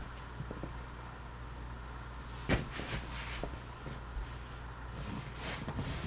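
Tatung Hugger ceiling fan running on low with a steady low hum, with a sharp knock about two and a half seconds in and a few brief scuffing household noises.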